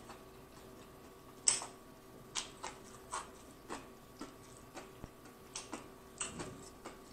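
A person chewing a mouthful of fried chicken with the mouth closed: soft, irregular wet clicks and smacks, about two a second, the loudest about a second and a half in.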